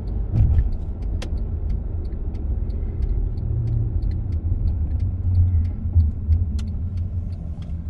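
Car moving slowly with a steady low rumble of engine and tyres, and light ticks and one sharp click over it.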